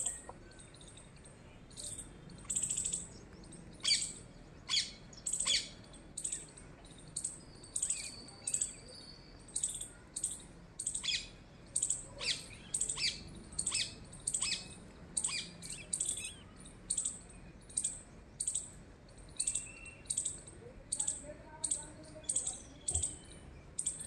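A small bird chirping, short sharp high-pitched calls repeated a bit more than once a second.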